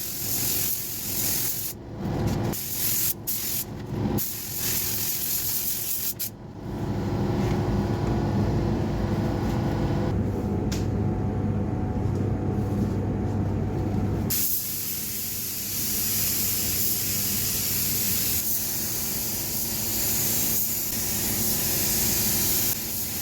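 Air spray gun hissing as clear lacquer is sprayed onto a car body panel, cutting off briefly several times between passes in the first few seconds, then stopping for several seconds in the middle before hissing steadily again. A steady low hum carries on underneath.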